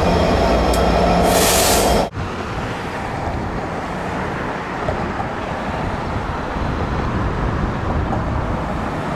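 A train running by: a loud rumble with steady tones, and a short high hiss just before two seconds in. It cuts off abruptly, and a quieter steady rumble of noise follows.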